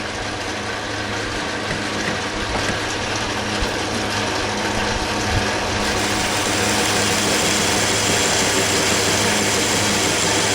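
Metal lathe running with the cutting tool taking a pass to turn a piece of stock round: a steady motor hum under a cutting hiss that grows a little louder about six seconds in.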